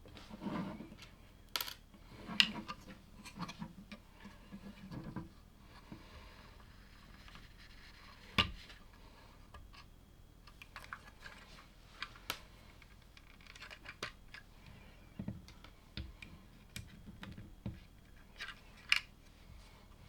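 LEGO plastic bricks being handled and pressed together: irregular sharp clicks and snaps, with some light rustling of pieces in between.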